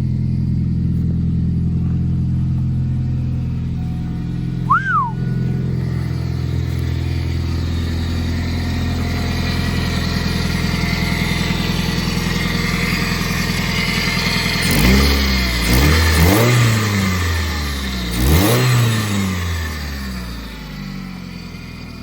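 Ford Focus ZX3 engine idling steadily, then revved up and back down about three times near the end. The idle is settled and even now that a new idle air control valve has cured its high idle. A brief high chirp comes about five seconds in.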